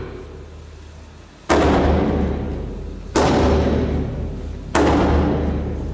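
Japanese taiko drums struck together in a slow, heavy unison beat: three big booming hits about a second and a half apart, each ringing out and fading before the next.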